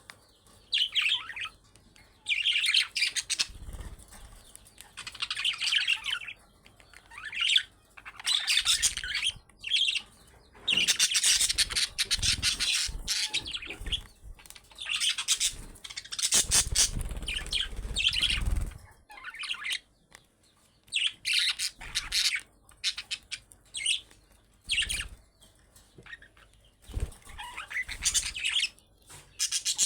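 Budgerigars chattering and chirping in bursts of one to three seconds with short pauses between, with some low knocks and flutters in the middle.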